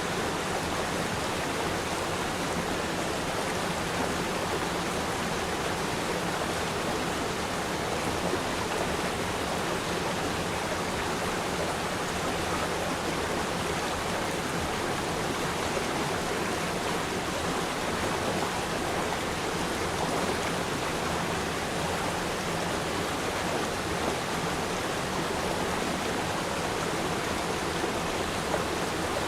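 River stream flowing over rocks: a steady, even rush of water with no breaks.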